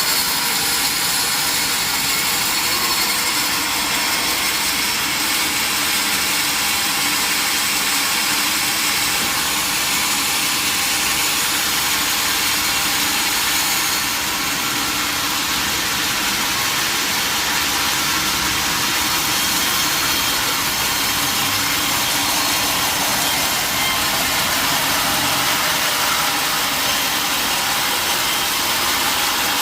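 Sawmill machinery running steadily, a loud even machine noise with a faint steady hum, and no break or start-up.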